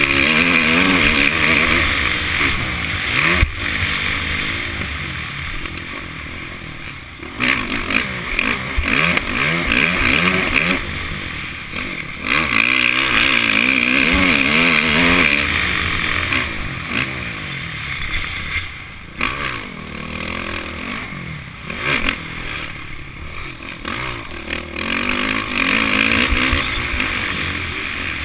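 Honda CRF450 single-cylinder four-stroke dirt bike engine revving hard under racing throttle, its pitch climbing and falling as the throttle opens and shuts through the gears, with several loud surges separated by brief dips. Heard close up from the bike's own GoPro.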